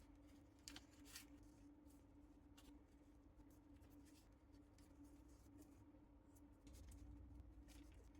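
Faint rustles and soft crinkly clicks of origami paper being folded and creased by hand, over a steady low hum.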